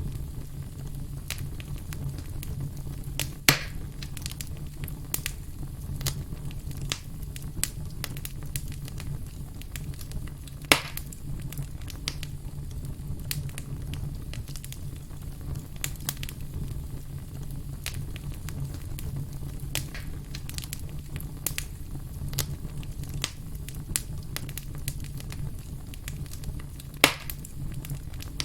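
Campfire crackling: a steady low rumble of burning wood with frequent small crackles and three louder sharp pops, one near the start, one about a third of the way in and one near the end.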